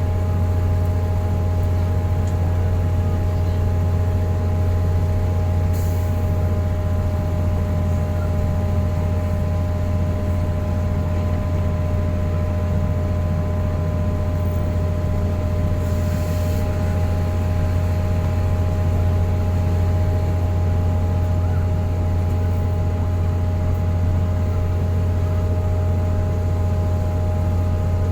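Vehicle driving at a steady motorway speed: an unchanging low drone with a few steady whining tones above it.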